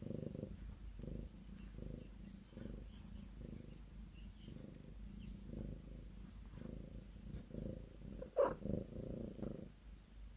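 Domestic cat purring close up, the purr swelling and fading in a steady rhythm of about two pulses a second with its breathing. A brief louder sound that rises in pitch comes about eight seconds in.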